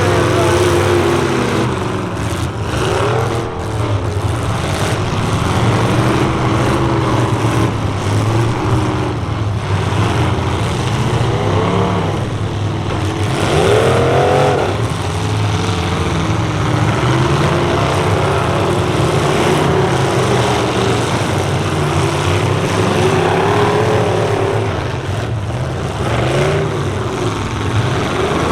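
Several full-size pickup truck engines revving hard together in a demolition derby heat, their pitch repeatedly climbing and dropping as they rev.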